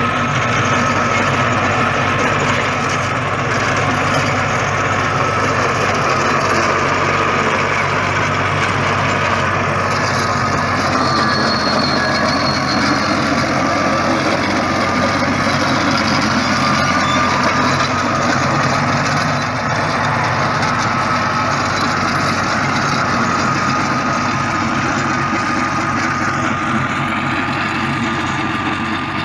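New Holland Ghazi 65 hp tractor's diesel engine running steadily, working a rotavator, with a thin steady whine above the engine note.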